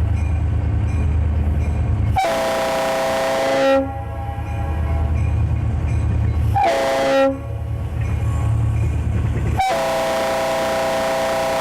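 Conrail diesel locomotive's chime air horn sounding the grade-crossing signal over the steady drone of the engine: a long blast, a short one about four seconds later, then another long blast that begins near the end and runs on.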